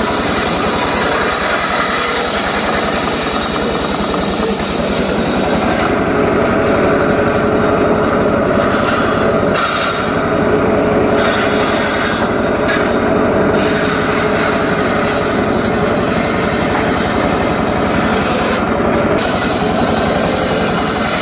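Homemade engine-driven circular saw running and cutting through a jowar log, the engine's steady beat under the blade's grinding hiss in the wood. The cut's high hiss eases off briefly a few times as the feed changes.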